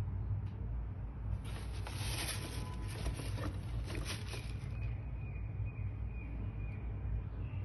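Sneaker packaging being handled: about three seconds of crinkly rustling, beginning about a second and a half in, over a steady low rumble.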